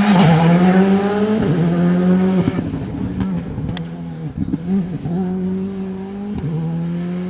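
Rally car engine passing close at high revs, then accelerating away through several quick upshifts, the note climbing between each shift and fading with distance.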